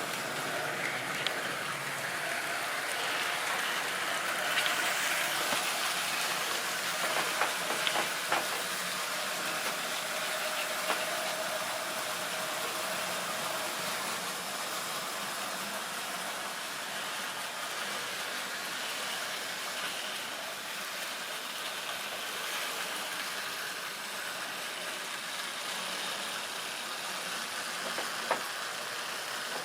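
Tri-ang or Lima model railway train running on its track: a steady whir from the locomotive's motor and the rolling wheels, with a few sharp clicks, most of them between about seven and eleven seconds in.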